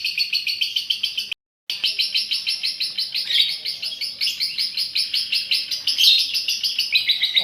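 Female lovebird's long chattering song (ngekek), a rapid unbroken run of sharp high chirps at about ten a second, cut by a brief dropout just over a second in.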